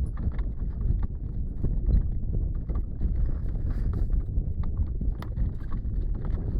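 Horses' hooves clip-clopping as a horse-drawn carriage team moves along, irregular sharp hoof strikes over a steady low rumble.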